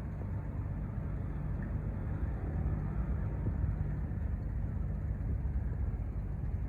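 Steady low engine rumble of a large cargo ship under way on the river, with a faint hum at a few low pitches beneath it.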